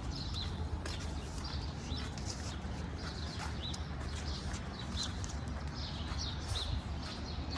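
Small birds chirping repeatedly, short high calls a few times a second, over a steady low rumble.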